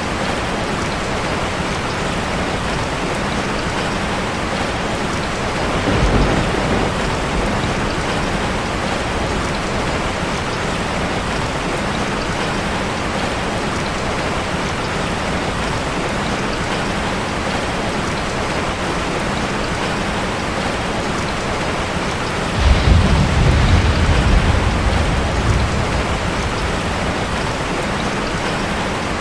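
Steady rain drumming on a metal roof, with a short roll of thunder about six seconds in and a longer, louder rumble of thunder in the last third.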